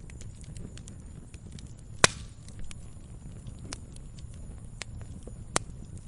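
Campfire crackling: scattered small crackles of burning wood over a low steady rumble, with a loud sharp pop about two seconds in and another near the end.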